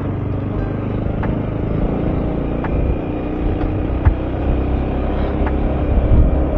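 Yamaha XMAX maxi-scooter's single-cylinder engine running steadily while riding uphill, with faint regular ticks about every second and a half; it gets a little louder near the end.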